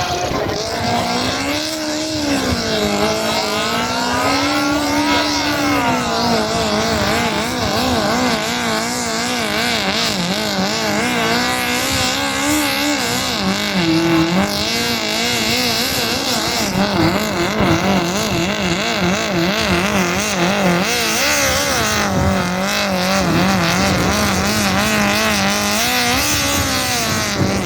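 Pulling vehicle's engine running hard under load through a pull. Its pitch sweeps up and down and wobbles quickly throughout.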